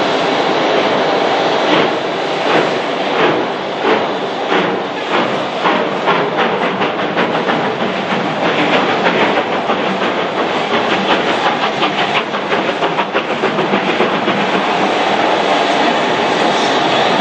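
Steam locomotive, the LMS Black Five 45212, getting away: its exhaust beats start about one every 0.7 s and quicken steadily as it gathers speed, running together into a continuous rush near the end.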